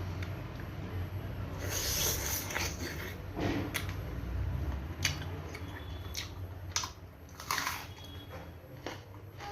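Close-up eating sounds: a person chewing food, with a string of short wet smacks and crunches.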